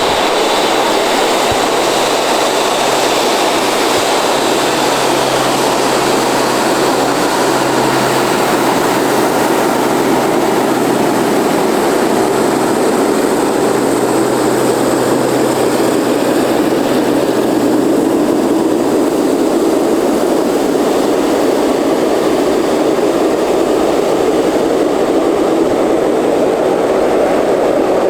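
Boeing 747 freighter's jet engines running steadily at taxi power, a constant loud jet rush with a faint low hum underneath.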